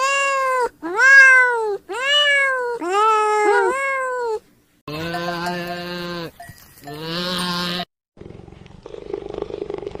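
A kitten mewing about five times in high calls that rise and fall, then a goat bleating twice in lower, steadier calls, then a cheetah's low, rough, pulsing purr-like rumble near the end.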